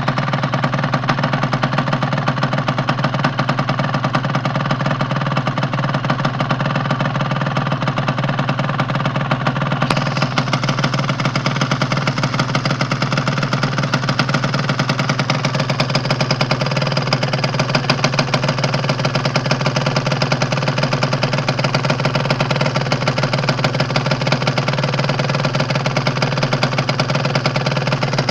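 Honda Nova Dash's stock 125 cc two-stroke single-cylinder engine idling steadily through its original factory exhaust, a fast, even run of firing pulses with no revving.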